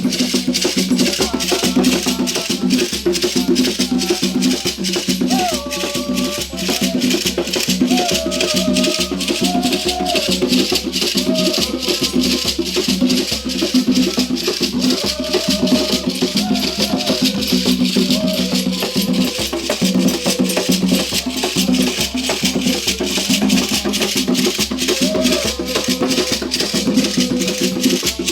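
Tambor de Mina ritual music: a fast, steady beat of hand drums and shaken gourd rattles, with voices singing a wavering melody over it.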